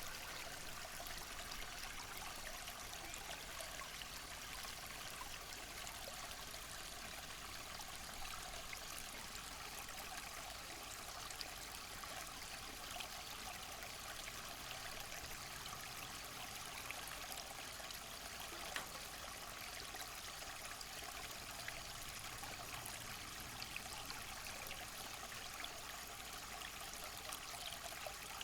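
Steady hiss of running water, with a few faint ticks.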